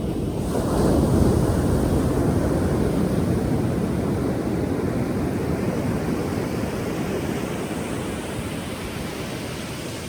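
Ocean wave breaking about a second in, a loud rushing surge that slowly washes out and fades over the following seconds.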